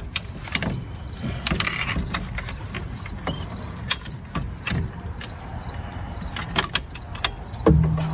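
Hand ratchet and 15 mm socket clicking and clinking irregularly on a brake caliper bracket bolt. Crickets chirp steadily in the background, about three chirps a second.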